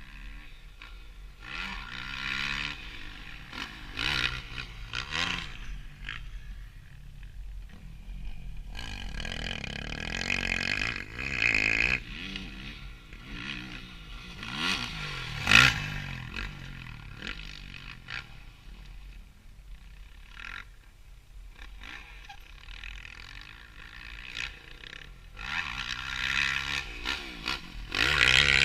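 Motocross bike engine revving up and down over and over, its pitch rising and falling with each burst of throttle, with several louder surges. A steady low rumble of wind on the action-camera microphone lies under it.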